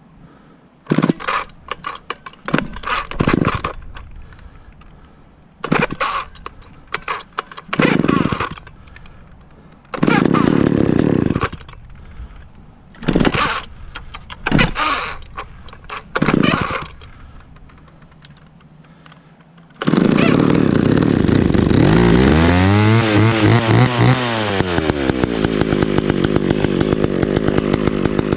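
Two-stroke chainsaw being pull-started: repeated short pulls and sputters for most of the first seventeen seconds. About twenty seconds in it catches, is revved up and back down, and settles into running with an even pulsing beat.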